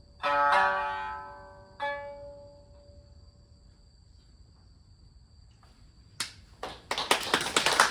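Final plucked-string chords of a Yamato-gaku accompaniment, struck twice and left to ring away. A pause follows, then applause breaks out near the end.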